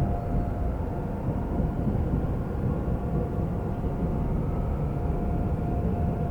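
Seoul subway train in motion: a steady low rumble with a constant whine over it.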